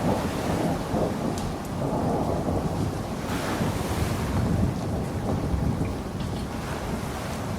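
Steady rain falling, a dense hiss over a deep low rumble, with a few sharp drip ticks and a brief surge of brighter hiss about three and a half seconds in.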